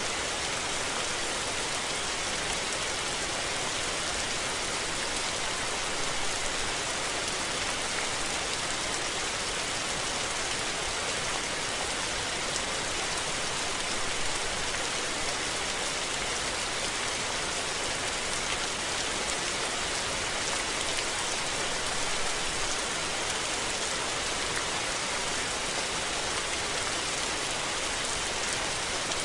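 Steady rain falling, an even hiss of drops with faint individual patters and no thunder.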